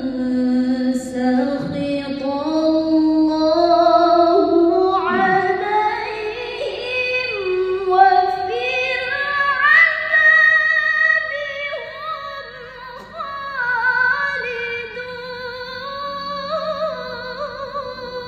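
A woman reciting the Quran in melodic tilawah style, in long ornamented held notes. Her voice climbs to a high register by the middle, falls away briefly, then carries on at a slightly lower pitch.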